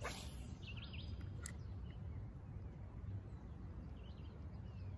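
Small birds chirping faintly over a steady low rumble of outdoor ambience, with a brief rush at the very start and a single sharp click about a second and a half in.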